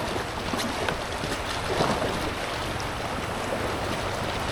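Steady rush of creek water around an inflatable kayak drifting downstream, with some wind on the microphone.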